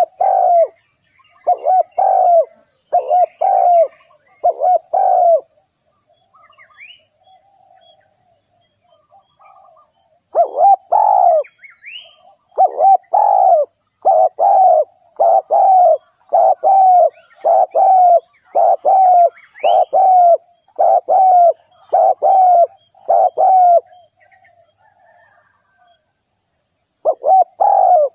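Spotted dove cooing: short, repeated coos at about one a second, in a run of six, a pause of several seconds, then a longer run of about thirteen, and two more near the end. This is the call played to lure wild spotted doves to a decoy. Faint high chirps of smaller birds come in between.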